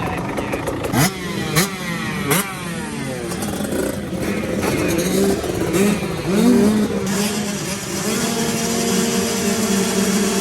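Motocross bike engines revving hard, with three quick rising sweeps in pitch in the first few seconds as throttle opens, then wavering and steadier engine running.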